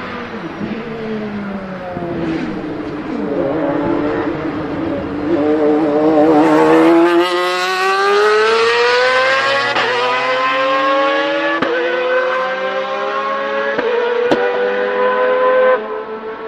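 Lamborghini Murciélago R-SV GT1 race car's V12 engine, loud. It drops in pitch early on, then accelerates hard with a long rising pitch, with a few sharp cracks along the way. It cuts off abruptly near the end.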